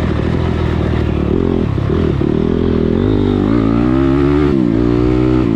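Motocross dirt bike engine running hard on the track, revs climbing from about three seconds in, dropping sharply as the throttle is shut, then rising again near the end.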